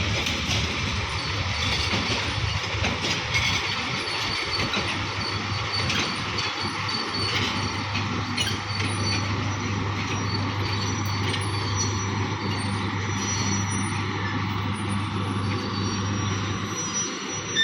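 Parabat Express passenger train running on the rails: a steady rumble and rail noise, with faint thin high squeals from the wheels now and then.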